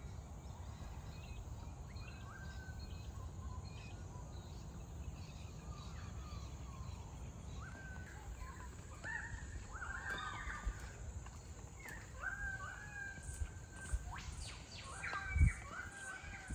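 Birds calling, many short chirps and calls, busier in the second half, over a steady low rumble. A sharp thump about 15 seconds in is the loudest moment.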